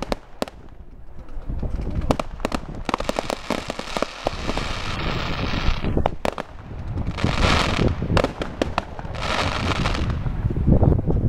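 Fireworks display: a rapid run of sharp bangs and reports as aerial shells burst, with two short spells of hissing in the second half.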